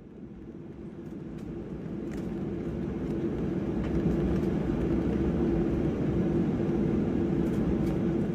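Jet aircraft engine noise fading in from silence and building over a few seconds to a steady rumble with a humming tone, easing off near the end.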